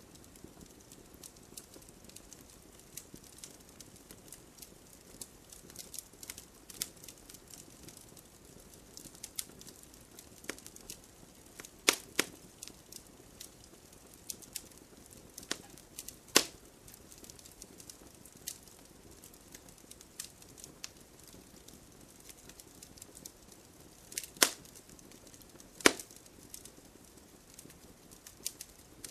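Wood fire burning in a fireplace: a low steady hiss under frequent small crackles, with a few louder, sharp pops and snaps scattered through.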